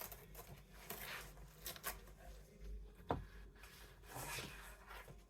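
Faint scraping and rubbing of cardboard being trimmed and handled, with a few light clicks, the sharpest about three seconds in.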